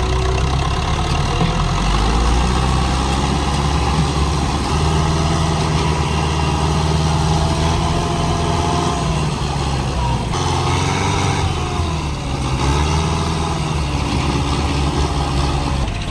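Tractor engine running steadily under load, its pitch dipping and picking up again a couple of times, with a sudden change in tone about ten seconds in.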